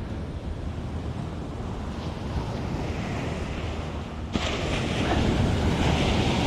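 Ocean surf washing on the beach with wind buffeting the microphone; the noise rises sharply and grows louder about four seconds in.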